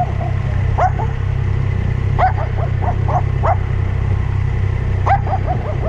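A dog barking in three bursts of quick, high, yelping barks, over the steady low drone of a running motorbike.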